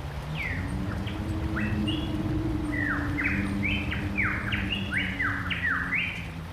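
Rainforest birds calling: a quick run of short whistles that slide downward in pitch, some overlapping, coming thicker from about halfway through.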